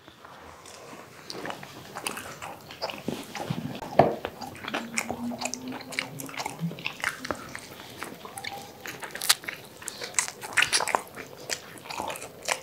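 Close-miked eating: people biting and chewing pizza and fried food, with many short wet mouth clicks and smacks.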